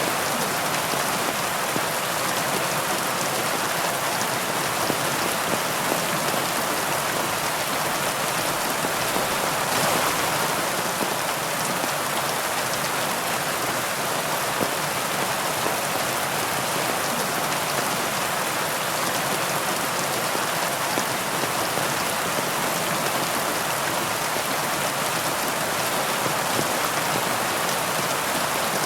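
Steady heavy rain falling, a dense even hiss of raindrops.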